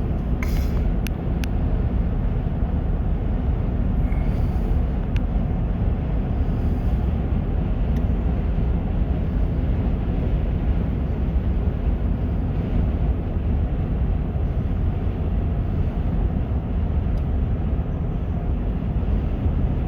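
Steady low rumble of road and engine noise inside a moving car's cabin, with a few light clicks in the first couple of seconds.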